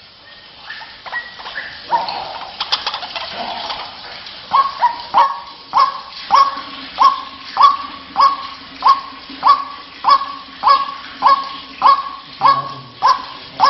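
White-breasted waterhen calling: a few scattered notes, then from about four seconds in a steady, rhythmic run of loud, clipped notes, about one and a half a second, each sliding down in pitch. A low steady hum sits beneath the calls from about halfway through.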